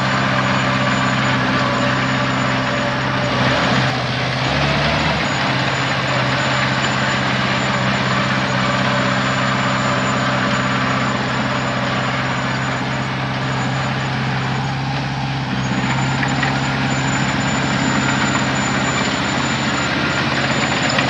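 Heavy diesel engine running steadily, with a brief change in its note about four seconds in.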